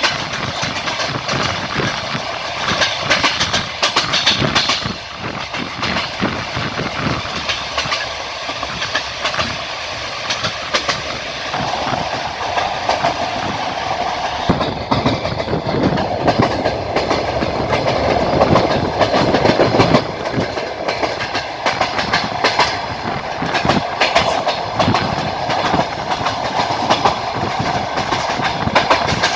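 Passenger train running along the line, its wheels clattering over the rail joints under a continuous rushing noise, a little louder around the middle.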